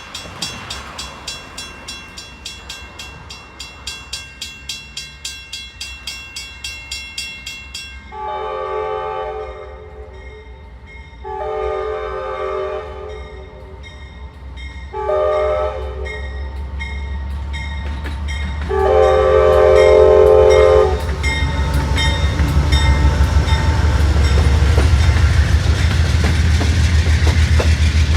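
A railroad crossing bell rings steadily. An approaching Amtrak Downeaster locomotive then sounds its horn in the grade-crossing pattern: long, long, short, long. After the last blast the train's engine rumble and wheels on the rails build up loudly as it arrives at the crossing.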